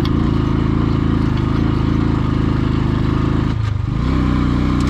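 Motorcycle engine running steadily under way. About three and a half seconds in, the engine note briefly drops off, then picks up again at a slightly higher steady pitch.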